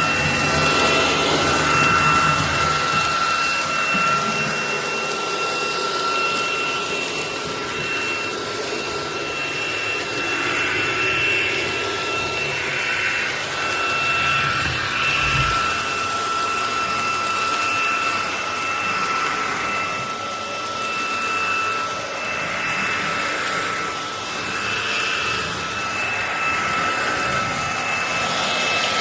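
SunSare X11 cordless stick vacuum running: a steady high motor whine with a higher overtone over rushing air, its loudness wavering a little.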